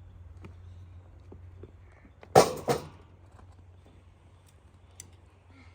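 Two sharp knocks about a third of a second apart, the second quieter, with a few faint clicks around them.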